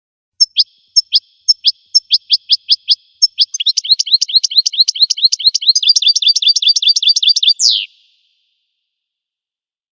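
Finch song: a series of short, high, downslurred notes, slow at first and then speeding up into a fast trill, ending in one longer falling note, after which it stops.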